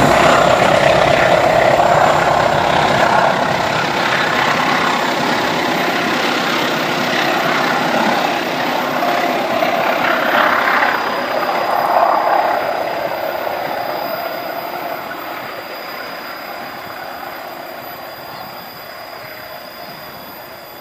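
Passenger train carriages rolling along a curving track, a steady rumble of wheels on rail that swells briefly around the middle, then fades as the train moves away.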